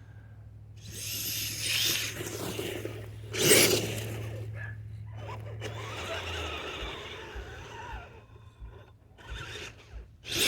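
Redcat Everest-10 RC truck's electric motor whining and its tyres churning through snow, the whine rising and falling with the throttle. It is loudest about three and a half seconds in and dies down near the end.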